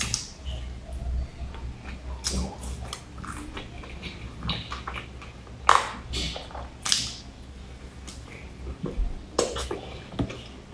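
Close-miked eating of a soft bun coated in meat floss and seaweed: biting and chewing with irregular wet mouth smacks and clicks, a few louder ones around the middle, over a low steady hum.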